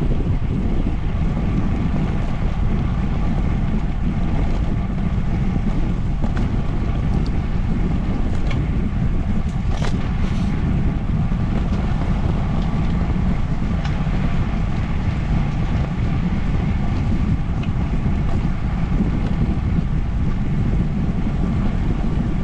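Wind rushing over the microphone of a camera carried on a moving bicycle: a steady low rumble that holds level throughout.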